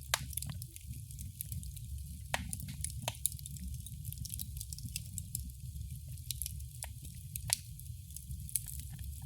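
Wood fire crackling in a fireplace: irregular sharp pops and snaps, a few much louder than the rest, over a steady low rumble of burning.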